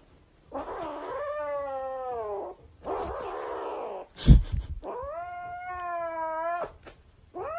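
Kitten yowling in long, drawn-out calls, three in a row, each rising at the start and then sliding down, with a breathy, raspy cry between the first two. A loud thump about four seconds in is the loudest sound.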